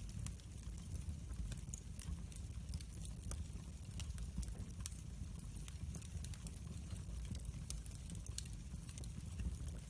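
Wood fire burning steadily, with frequent sharp pops and crackles over a low, steady rumble of the flames.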